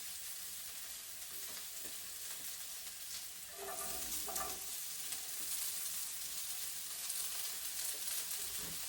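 Chopped garlic and carrot sizzling steadily in hot oil in a cast-iron pan.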